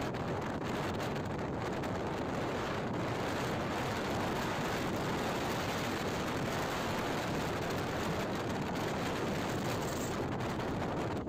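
Steady rushing wind and road noise on the microphone of a moving motorcycle, with no clear engine note.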